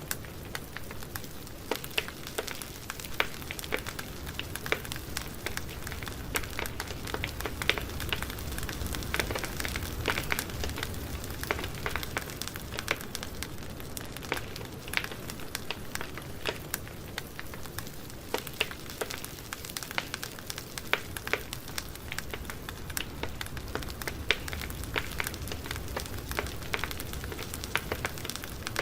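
Campfire burning with a steady low rumble and many sharp, irregular crackles and pops of burning wood.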